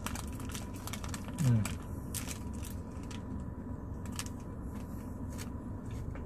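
Chewing a hard-frozen mochi ice cream with a thick glutinous-rice skin: scattered small clicks and crackles, with one short falling hum about a second and a half in.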